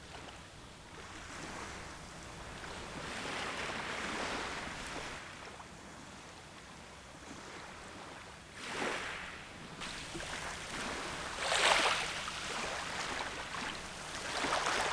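Small Baltic Sea waves washing onto the shore, the hiss of each wave swelling and fading, with several stronger surges in the second half.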